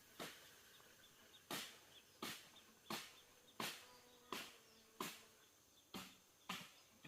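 A steady series of about ten sharp knocks or chops, roughly one every two-thirds of a second, each dying away quickly.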